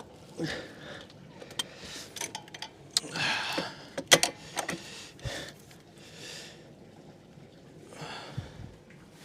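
Scattered metallic clicks and knocks of a socket wrench working on a starter-motor bolt, the loudest about four seconds in, with a few short, heavy breaths of effort.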